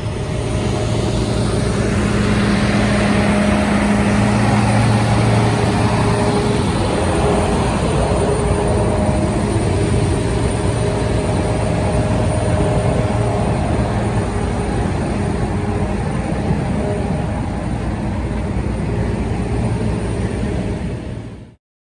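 Heavy fire truck's diesel engine running, a steady loud drone with a few faint held tones, cutting off abruptly near the end.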